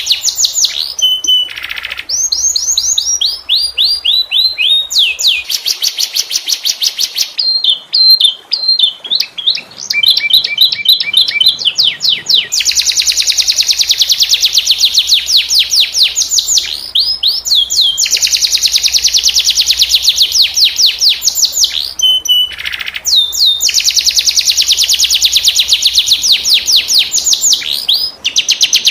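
Domestic canary singing continuously in long, rapid rolling trills of repeated high notes, some phrases sliding down in pitch. A brief stretch of choppier, varied notes comes near the middle.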